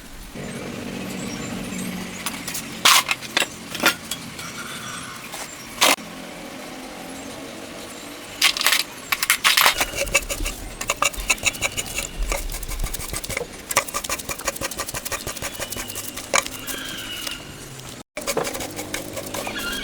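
Metal tools and engine parts clinking and knocking in irregular strikes, with a quick run of rapid clicks about halfway through.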